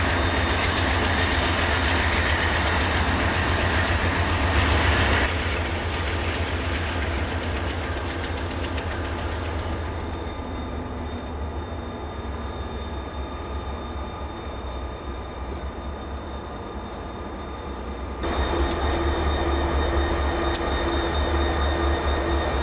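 Norfolk Southern coal train passing: its diesel locomotives, GE Dash 9-40CW and EMD SD40-2 units, run with a loud, deep engine rumble. About five seconds in the sound cuts abruptly to the quieter, steady rolling of coal hopper cars going by. A few seconds before the end it cuts back to a louder locomotive, an EMD SD40-2, going past with a pulsing engine note.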